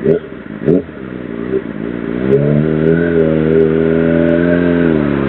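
Sportbike engine accelerating on the road, its pitch climbing and holding steady, then dipping briefly near the end before rising again. Two short sounds come in the first second.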